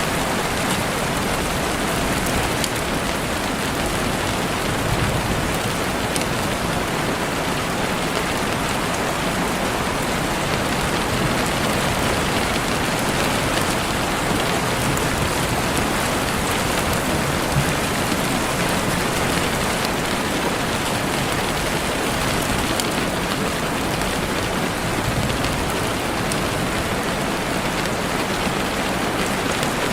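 Heavy rain falling steadily on forest leaves and ground: an even hiss with faint scattered drop ticks.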